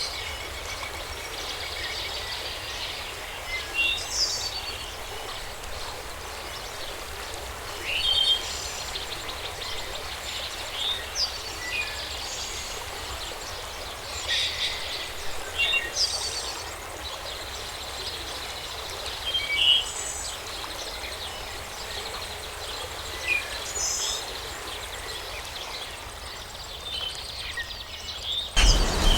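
Forest ambience with birds chirping in short, scattered calls over a steady background hiss. Just before the end, a louder, fuller ambience cuts in suddenly.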